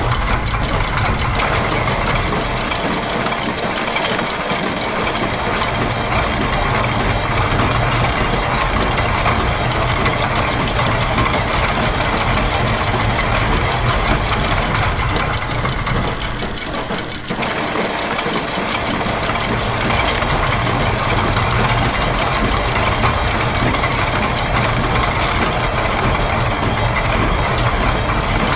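Layered loops of factory machine sounds (gears, a press, clockwork springs, ratchets and a sewing machine) running together as a dense, continuous mechanical clicking over a low drone. The mix briefly thins about two-thirds of the way through.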